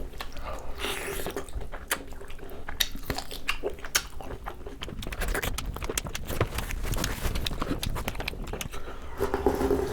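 Close-miked wet chewing and lip-smacking as a person eats saucy turkey wings, a rapid run of small sticky clicks and squelches.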